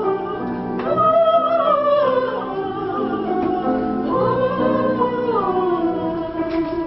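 A woman singing in a classical, operatic style, holding long notes in a slowly falling and rising melody over a steady instrumental accompaniment.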